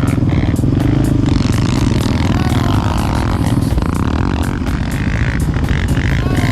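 Quad (ATV) engine running steadily while riding, with scattered short knocks and rattles over the engine.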